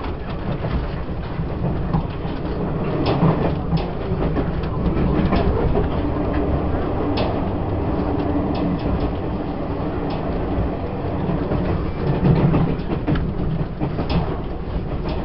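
Running noise of a Taiwan Railways E1000 push-pull Tze-Chiang express, heard from inside a passenger car: a steady rumble of wheels on rail with occasional sharp clicks. It grows louder over the first few seconds, then holds steady.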